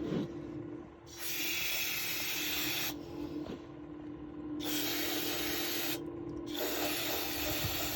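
Aerosol can of carburettor cleaner spraying into an open rear differential in three long bursts of hiss, the first starting about a second in.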